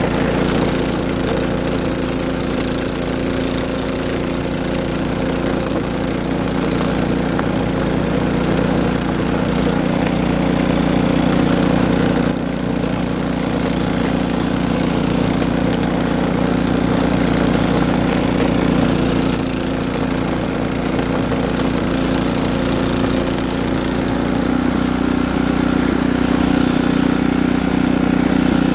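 Snowblower engine running steadily under load, with a steady rushing noise over it. The sound dips briefly about twelve seconds in.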